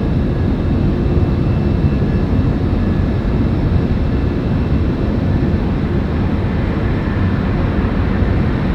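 Jet airliner's engines heard close by, a loud steady rumble with most of the sound low down.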